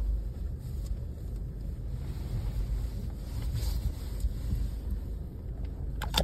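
Car engine and road noise heard inside the cabin: a steady low rumble while the car backs into a parking spot, with one sharp click near the end.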